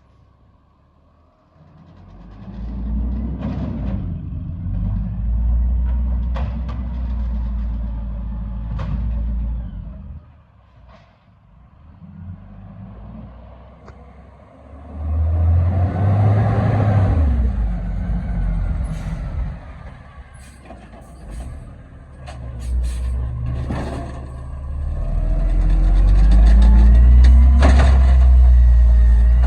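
Garbage truck working a collection route: its engine runs in spells, revving with a rising and falling whine about halfway through and running loudest near the end, with scattered sharp knocks and clanks.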